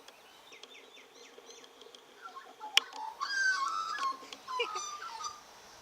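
Australian magpie warbling: faint short chirps at first, then from about two seconds in a run of bright, fluting warbled notes. A single sharp click comes near the three-second mark.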